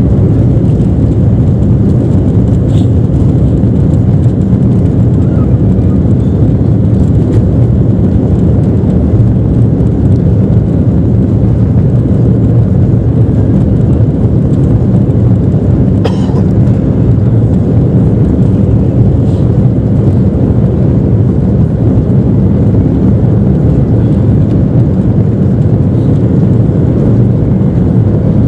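Jet airliner's engines and rushing air heard from inside the passenger cabin as the plane departs: a steady, loud low rumble.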